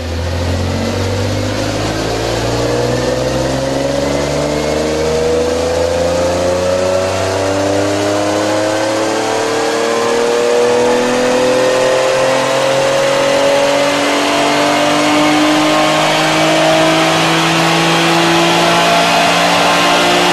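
Infiniti car engine with an HKS exhaust on a chassis dynamometer, making one long baseline dyno pull: the engine note climbs slowly and steadily in pitch without a break, loud throughout.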